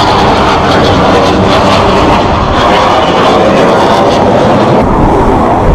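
Jet noise from Blue Angels F/A-18 Hornet jets flying in the air-show display, loud and steady.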